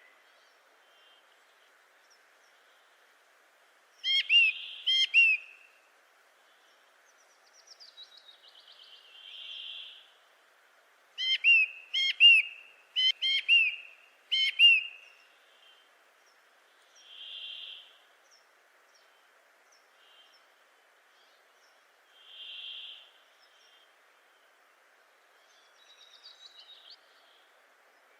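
Birds calling: quick bursts of sharp chirps about four seconds in and again around eleven to fifteen seconds, with soft single whistled notes every few seconds between them, over a faint steady background hiss.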